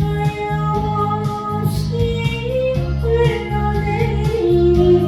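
Korean trot ballad with a woman singing long, held melody notes over a backing track, where guitar and a steady bass beat keep even time.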